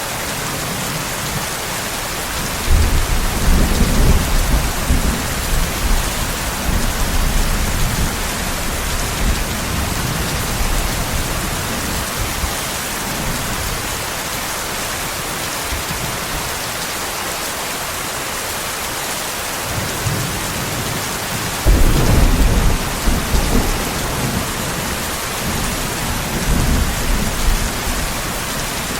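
Steady heavy rain with two long rolls of thunder, one starting about three seconds in and a louder one about twenty-two seconds in, each rumbling on and fading over several seconds.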